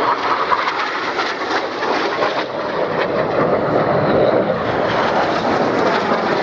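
BAE Hawk T1 jets of the Red Arrows making a low, slow pass. Their Adour turbofans give a loud, steady jet noise.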